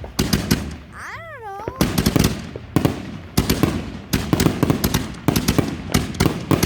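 Consumer fireworks going off in rapid volleys: dense crackling bangs, many a second, getting thicker after the first couple of seconds, with a short wavering whistle about a second in.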